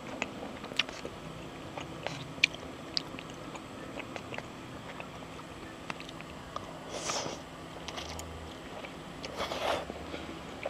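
A person eating up close, biting and chewing fried noodles and a soft-cooked egg, with small scattered clicks. Two brief noisy swells come about seven seconds in and again near the end.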